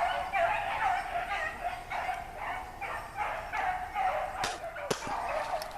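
A pack of rabbit hounds baying in the distance as they run a rabbit's trail, many voices overlapping in a steady chorus of repeated cries. A couple of sharp clicks come near the end.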